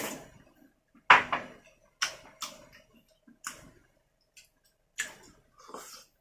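Sharp clicks and knocks from handling food and utensils while preparing seafood, about one a second with short pauses between.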